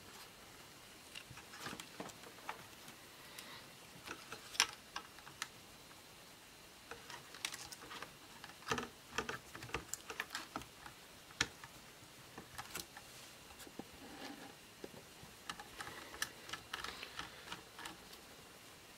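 Irregular light clicks and taps of laptop parts being handled and unclipped during disassembly, busier from about halfway in.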